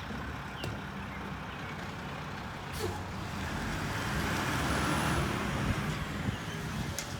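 Mack MRU garbage truck with a McNeilus rear-loader body, its diesel engine running with a steady low rumble. A hiss swells and fades about halfway through, with a few faint knocks.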